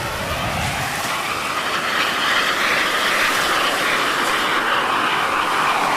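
Jet aircraft passing overhead: a loud rushing engine noise that swells over the first couple of seconds and holds, its pitch bending slightly as it goes by.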